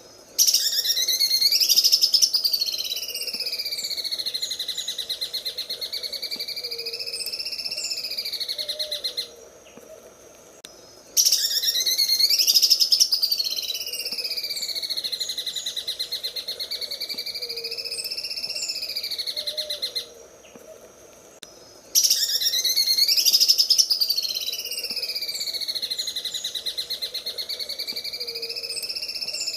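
Cucak ijo (green leafbird) singing its 'sewing machine' song: a very fast, machine-like trill. It comes in three long phrases of about nine seconds each, separated by short pauses, and within each phrase the pitch rises and then swings down and up.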